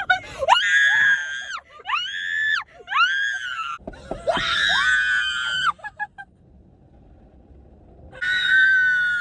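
Girls screaming in fright: four long, high-pitched screams one after another, a pause of about two seconds, then another scream near the end.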